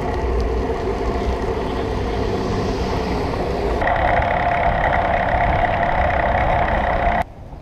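Steady road noise of vehicle traffic. It changes abruptly about four seconds in and cuts off sharply near the end.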